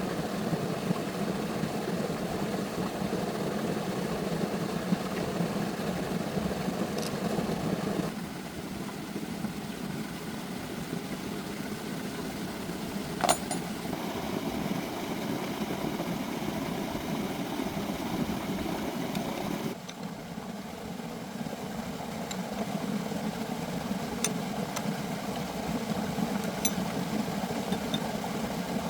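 An engine running steadily. The sound shifts abruptly twice, and there is one sharp click about halfway through.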